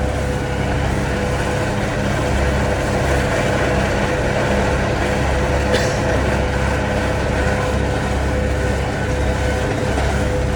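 Kubota tractor running steadily under load while pulling a Kuhn disc mower through hay, heard from inside the cab, with a steady whine over the engine drone and a single brief click about six seconds in.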